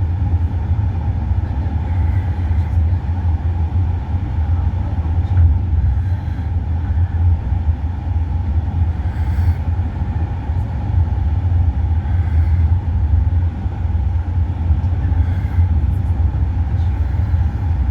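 Steady low rumble of a moving vehicle, engine and road noise heard from inside it.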